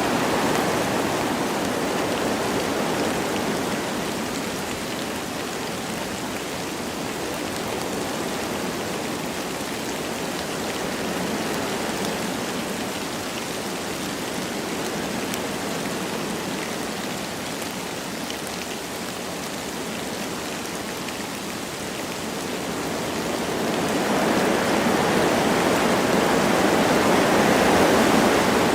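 Wind rushing through forest trees with light rain falling, a steady noisy wash that eases through the middle and swells louder again near the end.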